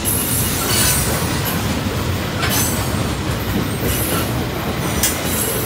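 Freight train tank cars rolling past a grade crossing: a steady rumble of steel wheels on rail, broken by a few sharp clacks.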